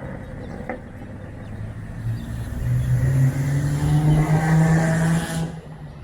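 A car accelerating on a wet road: its engine note rises from about two seconds in, over a hiss of tyres on wet tarmac that stops sharply near the end.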